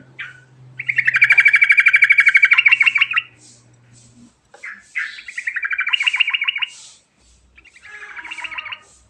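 Yellow-vented bulbul (trucukan) singing its rolling song: three fast trilled phrases, the first the longest and loudest, each a rapid run of chattering notes.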